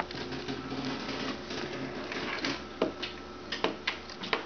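Scattered light clicks and knocks from the controls of a John Deere LA135 lawn tractor being worked by hand before a start, with the engine not yet running, over a faint steady hum.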